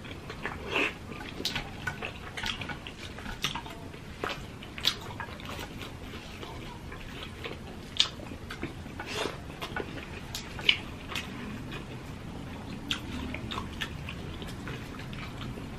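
Close-miked chewing and wet mouth sounds of two people eating rice and fried milkfish by hand, with irregular smacks and clicks.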